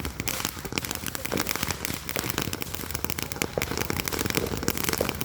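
Consumer fireworks crackling: a dense, rapid run of small sharp pops, dozens a second, without a break.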